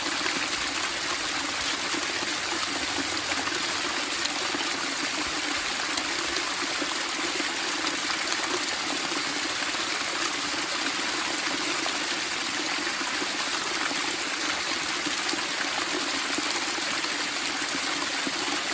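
Running water splashing and trickling steadily, an even burbling without breaks.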